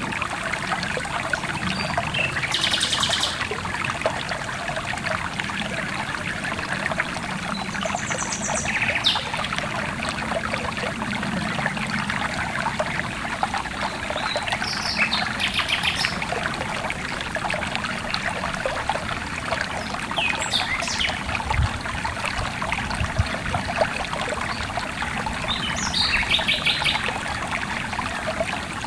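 Running stream water trickling and splashing steadily, with songbirds giving short, rapid trilled calls every few seconds over it.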